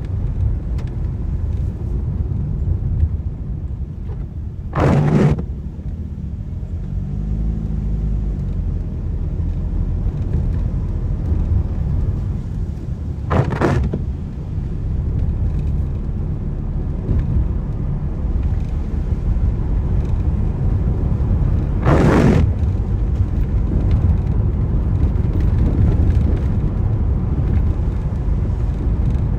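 Car driving in the rain, with a steady low road and engine rumble. Three short swishes come about eight and a half seconds apart, typical of windscreen wipers on an intermittent setting.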